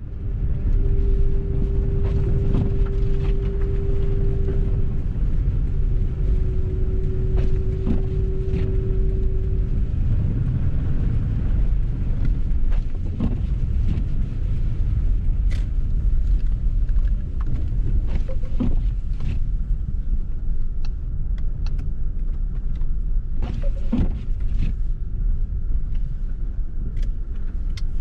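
A four-wheel-drive vehicle driving through snow, heard from inside: a steady low rumble of engine and tyres, with scattered knocks and bumps. A steady mid-pitched hum sounds twice, about four seconds each, in the first ten seconds.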